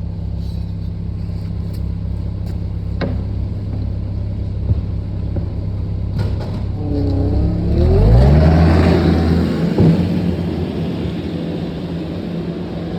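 Tractor engine running steadily, then revving up about seven seconds in, rising in pitch to its loudest for a couple of seconds before easing back to a steady run. A single sharp click sounds about three seconds in.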